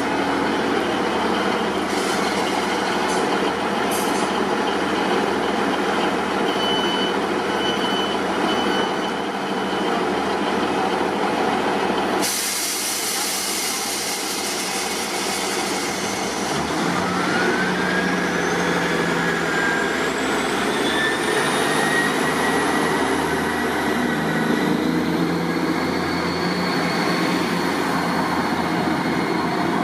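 ScotRail Class 158 diesel multiple unit running at the station. Its sound changes abruptly about twelve seconds in, and from about seventeen seconds a whine climbs steadily in pitch as the unit picks up speed.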